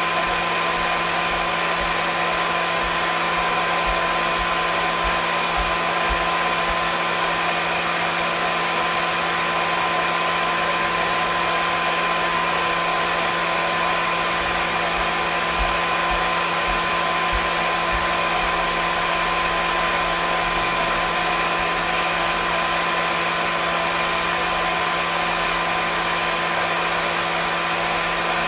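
Hair dryer running continuously at a steady speed: an even airy rush with a steady motor hum and whine under it.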